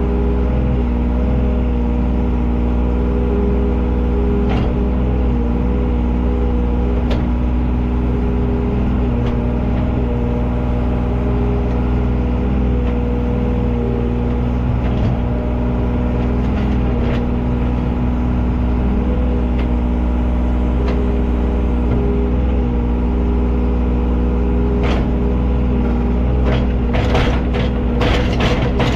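Earth-moving machine's engine running steadily at high idle, heard from the cab. A few sharp knocks come near the end.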